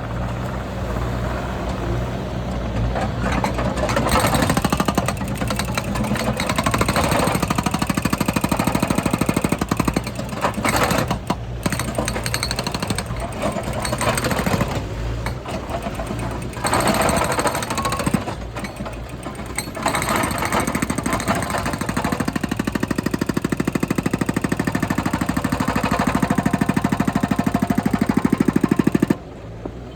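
Skid steer loader working, a loud machine sound made of rapid, even pulses that dips briefly a couple of times and falls away sharply near the end.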